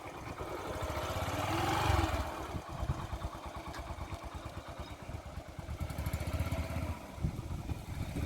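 Motorcycle engine running as the bike pulls away, rising in revs over the first two seconds and then running steadily at lower revs.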